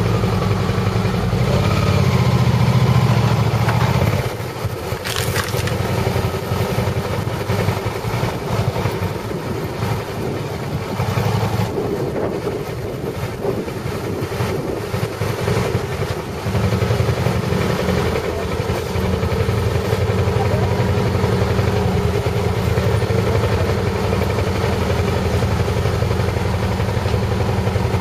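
Motorcycle engine running steadily. It drops quieter about four seconds in and comes back louder a little past the middle.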